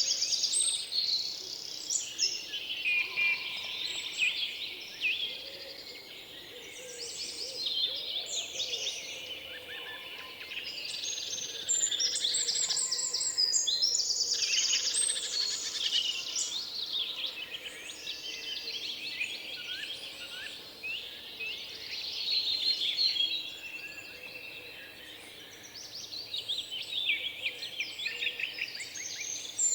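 Several small songbirds singing and chirping at once: rapid trills and short chirps overlapping in a dense chorus that swells and thins every few seconds.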